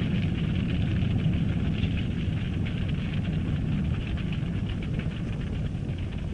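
A steady low rumble with a hiss above it, flecked with faint crackles: a cartoon rumbling sound effect.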